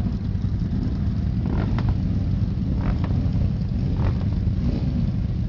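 Several motorcycle engines running together at idle, a low, steady rumble.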